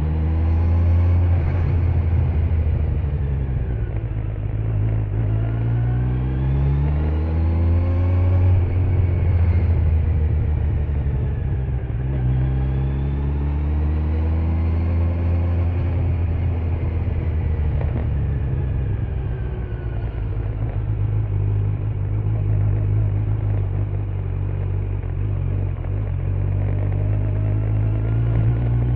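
A 2025 Kawasaki Z900's inline-four engine running on the move. Its pitch rises and falls several times as the throttle is opened and closed, over a steady low rumble.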